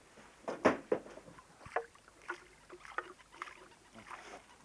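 Paddling and water sloshing around a wooden dugout pirogue: irregular short splashes and knocks, roughly two a second.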